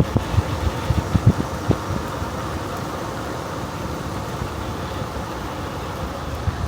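Steady rumble of riding a bicycle, with wind buffeting the microphone; a burst of low thumps in the first two seconds, then an even rush.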